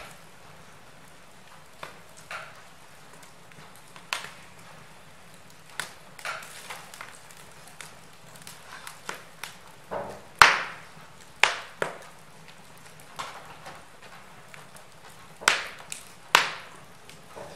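Wood fire crackling in a fireplace: irregular sharp pops and snaps over a faint low hiss. There are a few louder snaps, the loudest about ten and a half seconds in.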